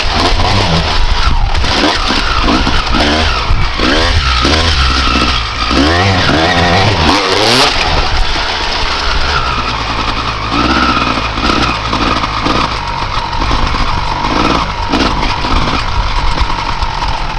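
A 1995 Honda CR250R's single-cylinder two-stroke engine being ridden hard, its pitch revving up and dropping back again and again. Over the last several seconds it runs lower and steadier.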